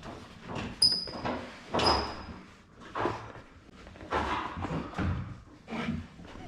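Metal scaffolding frame parts knocking and clanking as the scaffold is assembled. Two sharp metal strikes ring briefly about a second apart, followed by duller knocks and handling noise.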